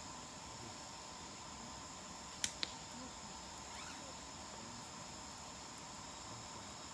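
Burning firewood popping twice in quick succession about two and a half seconds in, over a steady chorus of insects chirping.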